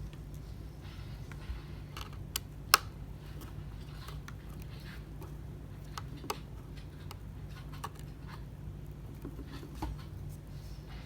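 Scattered small clicks and taps of a screwdriver and tiny metal parts on an opened phone, about half a dozen, the sharpest a little under three seconds in, over a steady low hum.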